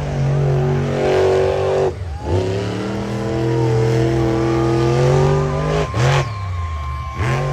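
Monster truck engine revving hard and holding high revs. The throttle lifts sharply about two seconds in and again near six seconds, and the engine climbs back each time.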